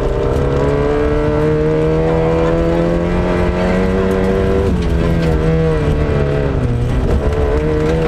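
Lada Samara rally car's four-cylinder engine under hard load, heard on board. The revs climb steadily through a gear for about four and a half seconds, then drop sharply at a shift. They waver and dip again briefly near the seventh second before climbing once more near the end.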